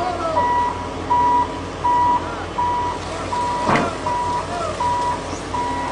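Heavy machine's backup alarm beeping steadily, one single-pitched beep about every 0.7 seconds, over the low hum of a running diesel engine. A sharp knock sounds once, a little past the middle.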